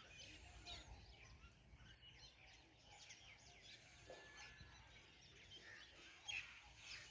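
Near silence: faint outdoor ambience with scattered faint, short high chirps.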